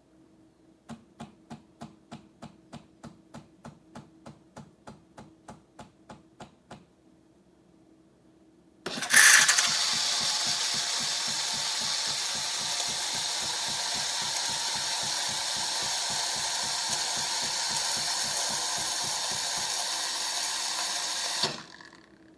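Philips 4300 Series automatic espresso machine running through a cycle. First comes a run of short pulses, about three a second, for some six seconds. After a pause a loud, steady mechanical whirr and hiss starts with a jolt and lasts about twelve seconds, then cuts off suddenly.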